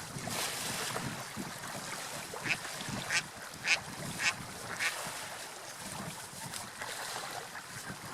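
Seagull giving a run of five short calls about half a second apart, over a steady wash of surf and wind.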